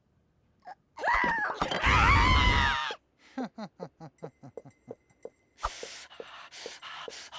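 A cartoon character's drawn-out, wavering vocal cry, loud, beginning about a second in. It is followed by a quick run of light taps, then a few noisy rustling bursts near the end.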